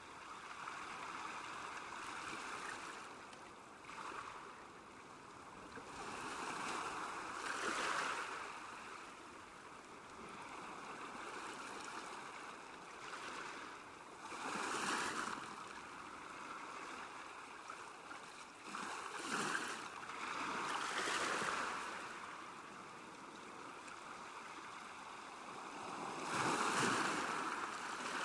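Small waves lapping at a lakeshore: a steady wash of water with a louder swell and splash every five to seven seconds.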